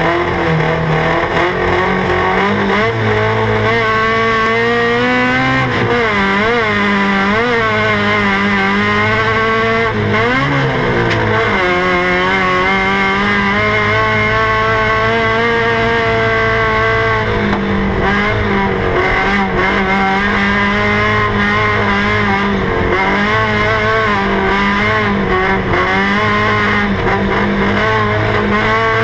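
Rally buggy's engine heard from inside the open roll-cage cockpit, running hard at speed, its revs rising and falling again and again as the driver accelerates and lifts.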